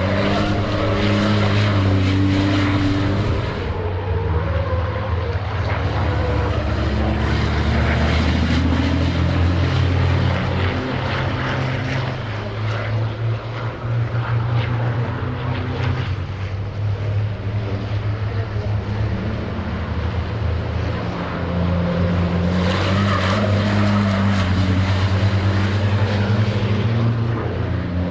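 Race trucks' heavy diesel engines running on track, a deep steady drone that eases somewhat in the middle and swells again about three-quarters of the way through.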